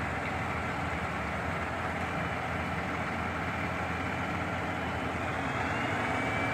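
Shingle delivery truck's engine running steadily, driving the lift that carries the shingle platform up and down to the roof. A faint whine rising in pitch joins near the end.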